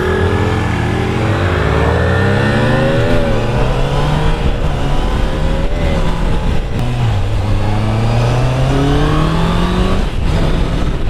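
Honda CBR650F's inline-four engine, A2-restricted, pulling under acceleration. Its pitch climbs and drops back sharply twice, about three and six seconds in, then climbs steadily again near the end.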